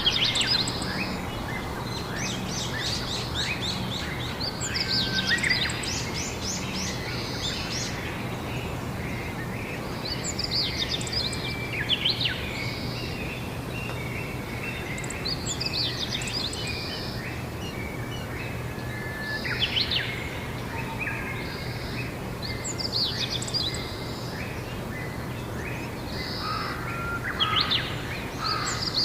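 Songbirds singing outdoors in short bursts of quick chirps and trills every few seconds, over a steady background hiss and a low hum.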